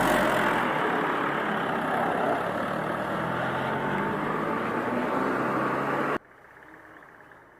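Truck engine running loudly, cut off suddenly about six seconds in, leaving a much quieter background.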